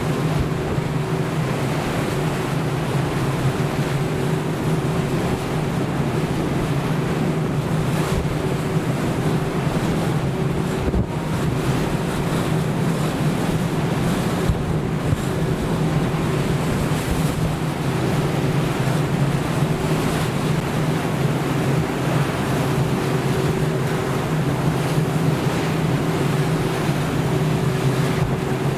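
A ship's engine humming steadily at sea, under the rush of waves and wind buffeting the microphone.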